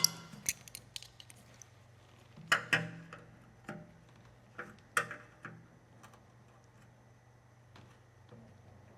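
Scattered light clicks and knocks of hands working on a motorcycle's fuel tank hoses and fittings, with a few louder clicks about two and a half and five seconds in, over a faint steady hum.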